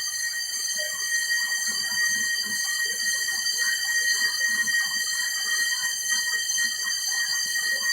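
Electric pork-skin (nem bì) shredding machine running, a steady high-pitched whine over an irregular light patter.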